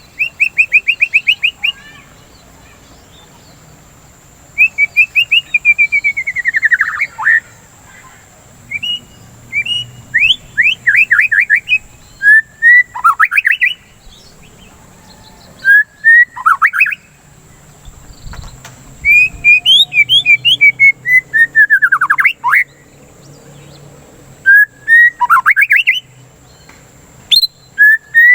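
A songbird singing in bouts of fast trills: quick runs of repeated notes, some sliding downward and others sweeping upward, about a dozen bouts separated by short pauses.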